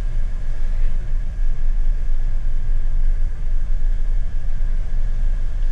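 Steady low road and drivetrain rumble inside a moving Jetour T2 SUV's cabin, with a faint steady high whine above it.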